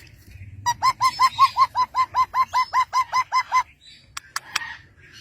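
Parrot calling in a rapid, even run of about fifteen short repeated notes, about five a second, for roughly three seconds, followed by a few sharp clicks.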